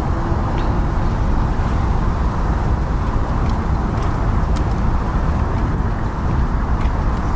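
Steady, loud rushing noise with a few faint clicks.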